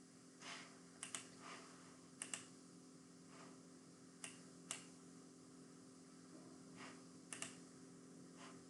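Sparse, irregular keystrokes on a computer keyboard, some in quick pairs, over a faint steady electrical hum.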